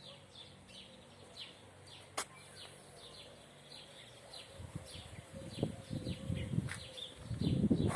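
Birds calling over and over in short, falling chirps. A low rumble builds in the second half and grows louder near the end.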